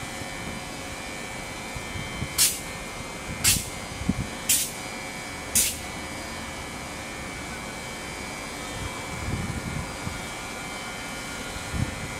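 Steady hum of a standing train's equipment with a thin high whine, broken by four short hisses of air about a second apart.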